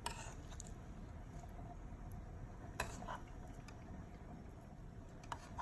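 A few light clicks and clinks of cooking utensils against cookware, over a steady low rushing background.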